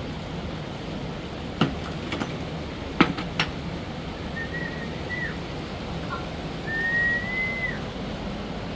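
A few sharp knocks, then two long whistled notes, each about a second and rising slightly before dropping off, over a steady low hum.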